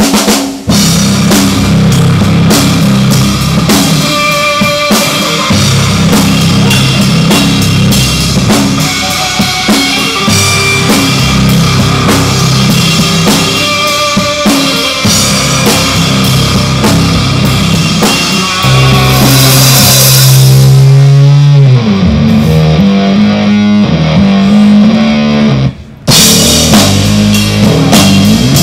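Live rock band playing loudly, with drum kit, electric guitar and bass. About two-thirds of the way through there is a held low note followed by sliding, wavering tones, and near the end the sound drops out for a moment before the band comes back.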